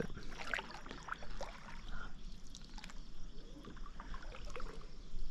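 Faint water trickling and lapping, with scattered small ticks and knocks.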